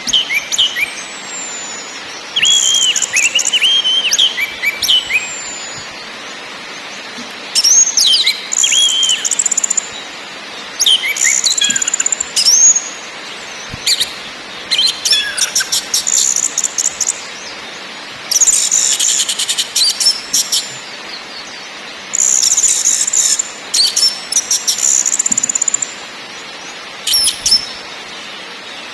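Orange-headed thrush singing: phrases of high whistles, slurred notes and fast rattling trills, each a second or two long with short pauses between, over a steady background hiss.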